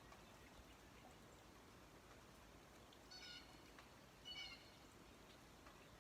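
A cat meowing twice, two short high calls about a second apart, over a faint steady hiss.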